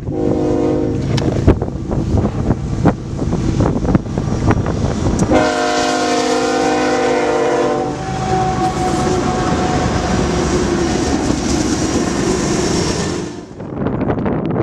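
Diesel locomotive air horn on a BNSF ES44C4 sounding a short blast, then a long blast that changes tone partway through and cuts off near the end, over the rumble of the passing train.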